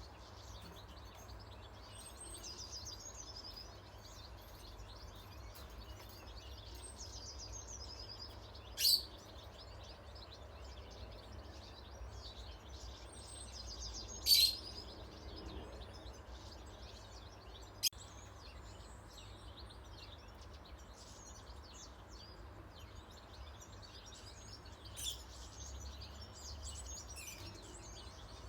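Many small wild birds chirping and twittering over a steady low rumble of background noise, with a few sudden louder, sharp sounds standing out, the loudest around the middle.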